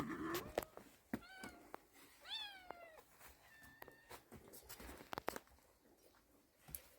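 A domestic cat meowing faintly, two or three short meows rising then falling in pitch, with a few small clicks between them.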